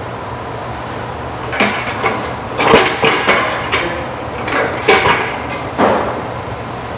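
Irregular sharp metal clanks and knocks, about eight over a few seconds, each with a brief ring, from metal parts and tools being handled and struck. A steady low shop hum runs underneath.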